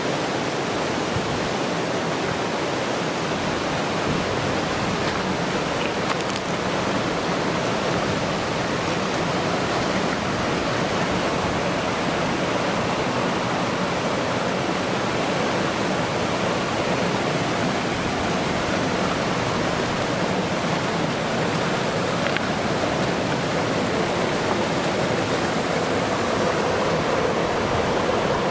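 Rushing water running steadily, an even hiss with no breaks or changes.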